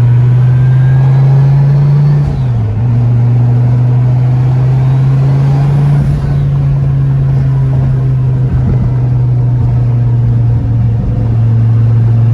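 Car engine running at a steady cruise, heard from inside the car as a loud low drone, with a brief drop in engine pitch about two seconds in.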